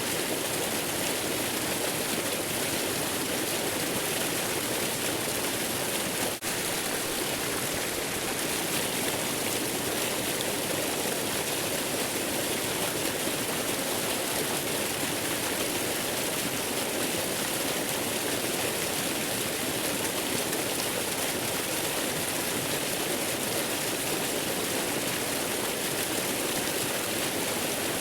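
Waterfall rushing steadily, an even wash of falling-water noise, with a momentary dip about six seconds in.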